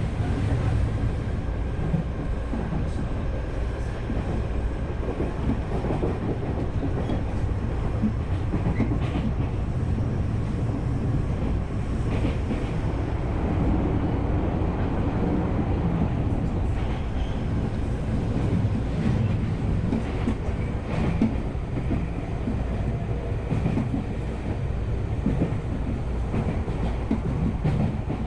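Running noise heard inside a Tokyu Oimachi Line electric commuter train at speed: a steady rumble of steel wheels on the rails, with occasional faint clicks over rail joints.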